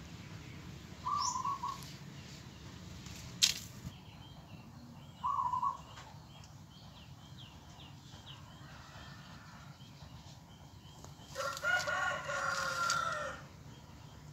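Outdoor bird calls: two short high calls about a second in and about five seconds in, then one long call lasting about two seconds near the end. A single sharp click about three seconds in is the loudest sound.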